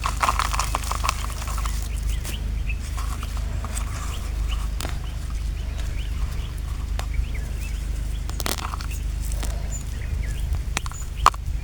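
Birds calling outdoors, short chirps scattered through, over a steady low rumble. Scattered clicks, with one sharp knock just before the end as the loudest sound.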